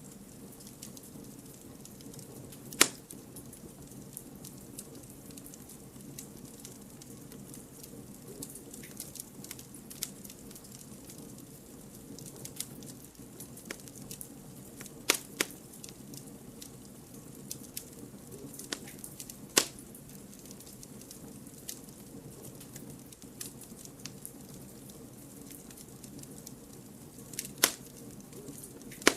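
Wood fire burning with a steady low hiss and continual small crackles, broken by sharp loud pops of burning firewood about half a dozen times.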